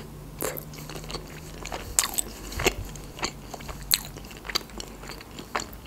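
A person chewing a mouthful of food close to the microphone: irregular wet clicks and crunches, a few each second, with no words.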